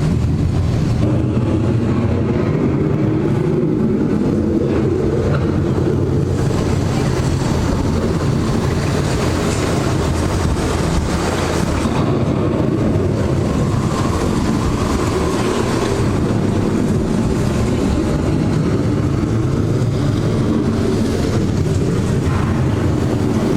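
Steady low rumble of a simulated thunderstorm sound effect: rolling thunder and wind played through the ride's speakers.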